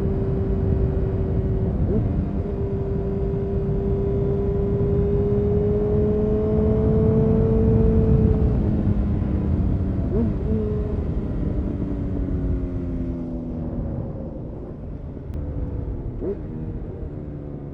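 2000 Honda CBR929RR Fireblade's inline-four through an Erion full racing exhaust, pulling in gear with its note slowly rising for about eight seconds. It then rolls off and the note falls as the bike slows, with brief gear changes about ten and sixteen seconds in, over a low rush of wind.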